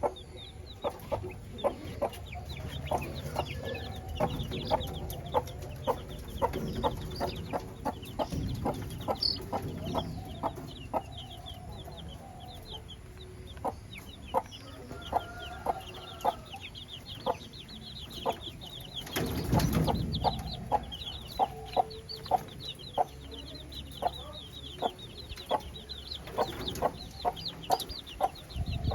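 Parrot-beak long-tail chickens clucking in short repeated calls, about once or twice a second, over a steady run of high chick peeping. A brief rustle about two-thirds of the way through.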